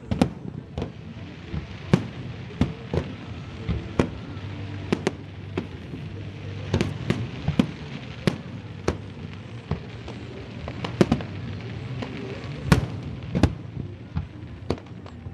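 Fireworks display: aerial shells bursting in an irregular string of sharp bangs, about one to three a second, some in quick clusters, over a steady low background rumble.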